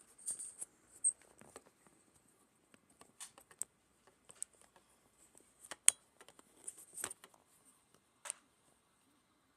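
Irregular light clicks and scrapes with a faint steady high hiss behind them; the sharpest click comes about six seconds in.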